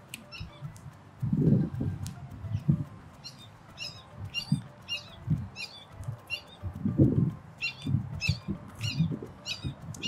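A small bird chirping over and over in short, high chirps, about two a second from about three seconds in. Low rustles and bumps of leaves and twigs being handled and set down run underneath.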